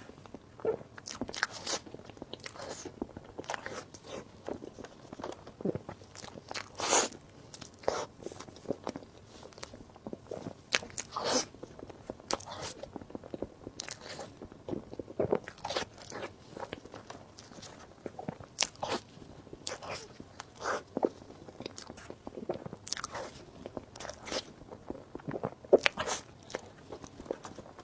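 Close-miked eating: biting and chewing, heard as irregular sharp clicks and smacks a few times a second.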